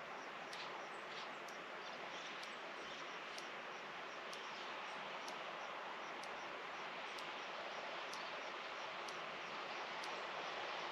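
Rural outdoor ambience: a steady even hiss, with a faint high tick about once a second and soft high chirps repeating several times a second.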